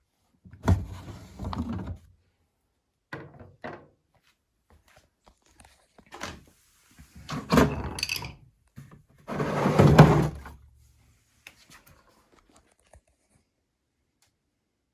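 A string of irregular thuds and clunks, like something being handled, opened or shut. The loudest sharp knock comes under a second in and the heaviest thud about ten seconds in, with a few faint ticks after it.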